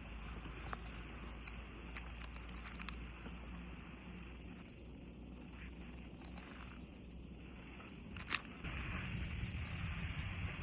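Crickets trilling in one steady high note, with a few faint clicks. A sharper click comes a little past eight seconds, after which a low background rumble grows louder.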